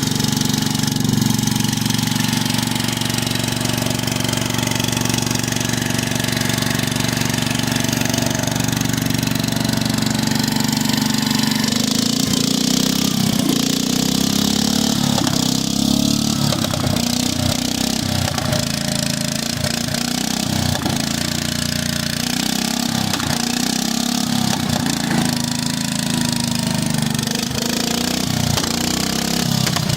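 Engine idling on a new carburetor while it warms up after a cold start on choke. It runs evenly for about twelve seconds, then turns uneven and lumpy, with irregular pulses, for the rest.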